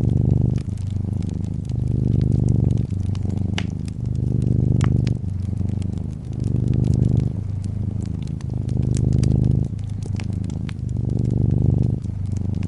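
A cat purring: a low rumble that swells and eases about every two seconds as it breathes in and out. Over it, a fireplace crackles with scattered small snaps.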